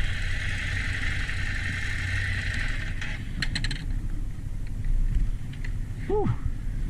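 Scrambler motorcycle running while being ridden: a steady low engine rumble under wind and road noise, with a short clatter about three and a half seconds in.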